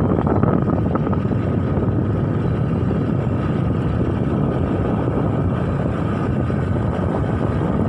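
Steady low rumble of wind and vehicle noise on the microphone while on the move.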